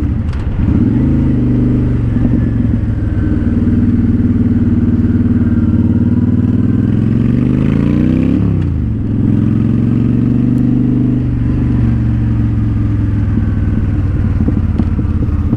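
Honda Shadow Spirit 750's V-twin engine running through an aftermarket Cobra exhaust as the bike rolls at low speed. About eight seconds in, the revs climb for a couple of seconds, then drop sharply.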